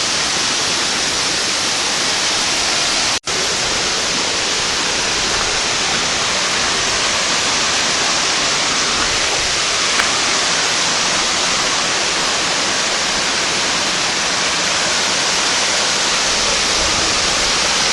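Steady rush of a forest river running over a small cascade, broken once by a very brief dropout about three seconds in.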